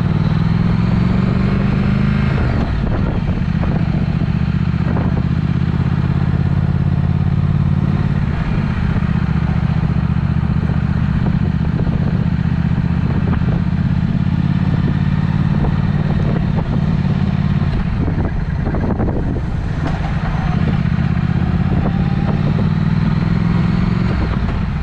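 Triumph Speed Twin's parallel-twin engine running through a Vance & Hines exhaust on the move: it rises in pitch under acceleration, drops about two seconds in as it shifts up, runs steadily, then climbs in pitch again near the end.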